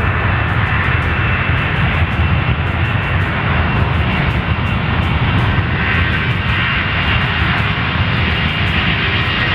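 C-17 Globemaster III turbofan engines running loud and steady, a dense noise heaviest in the low end.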